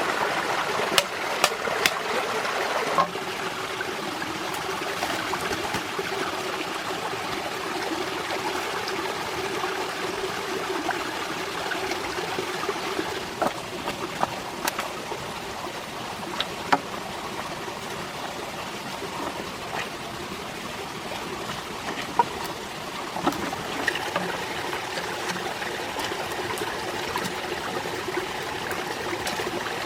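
Steady rush of flowing stream water, with a few sharp clicks or pops scattered through it.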